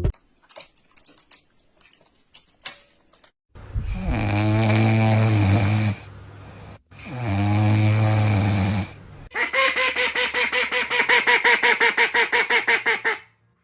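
Loud snoring: two long drawn snores of about two and a half seconds each, then a fast rattling flutter of about seven pulses a second for the last four seconds.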